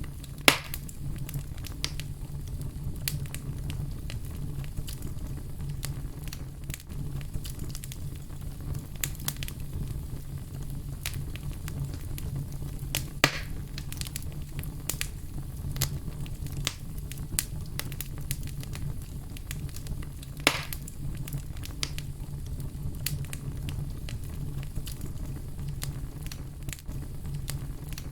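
Fire crackling with a steady low rumble and a constant scatter of small crackles, broken by three loud sharp pops: one near the start, one about halfway through and one about two-thirds of the way in.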